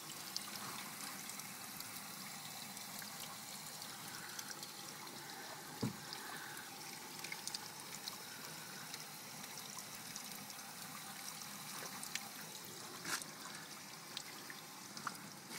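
Water leaking in a steady trickling pour, with scattered small drips and ticks. A short low thump comes about six seconds in.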